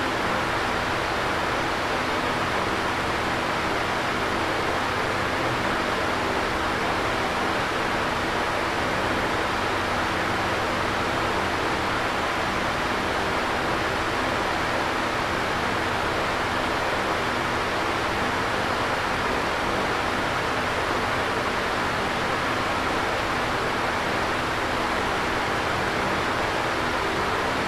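Electric fan running steadily: an even whooshing rush of air with a faint low hum from the motor.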